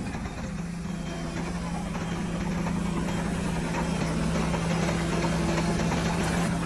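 Heavy diesel engine of earthmoving machinery running steadily at a constant pitch, growing a little louder near the end.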